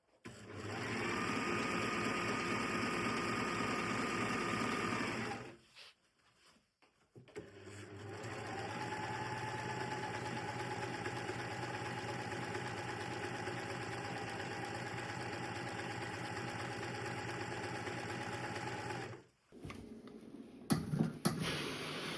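Electric sewing machine stitching in two runs, about five seconds and then about eleven seconds, a fast even needle rhythm over a steady motor whine. A few sharp clicks follow near the end.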